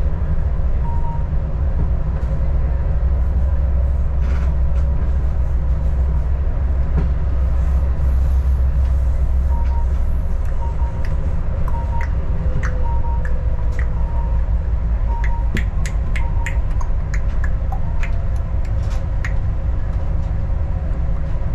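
Adelaide Metro diesel railcar running along the track: a steady low rumble, with short high-pitched squeaks and sharp clicks from the wheels and rails, most of them in the second half.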